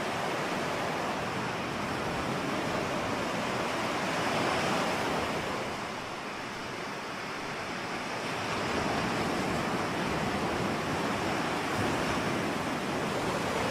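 Ocean surf: a continuous wash of waves that swells about four seconds in, eases off briefly, then builds again.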